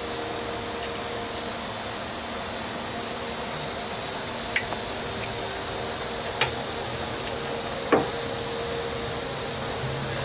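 Steady fan-like hiss with a faint hum, broken by four sharp metallic clicks and knocks from hand tools and engine parts being worked loose on the car, the last and loudest about eight seconds in.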